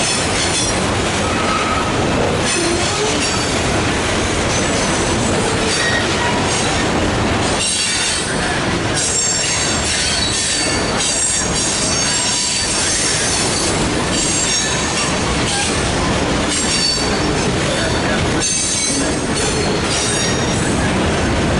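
Freight train cars rolling past on the rails, with a steady rumble and intermittent high-pitched wheel squeal.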